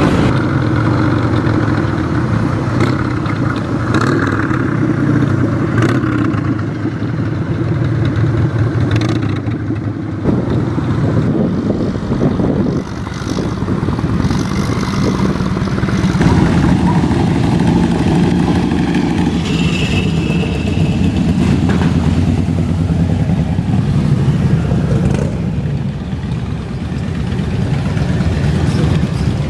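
Motorcycle engines running steadily, with some revving.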